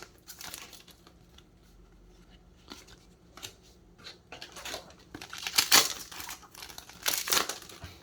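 Yu-Gi-Oh booster pack wrapper being torn open and crinkled in short rustling bursts, the loudest about five and a half and seven seconds in.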